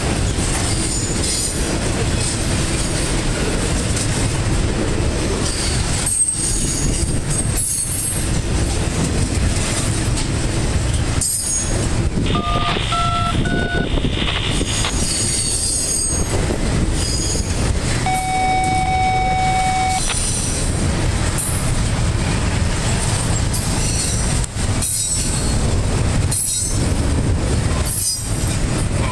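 Loaded double-stack container well cars of a freight train rolling past at close range: a steady heavy rumble of steel wheels on the rails, with short dips in the sound as the gaps between cars go by.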